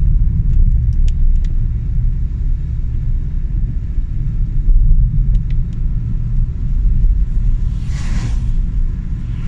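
Steady, loud low rumble of a car in motion, heard from inside, with a few faint clicks and a short rushing whoosh about eight seconds in.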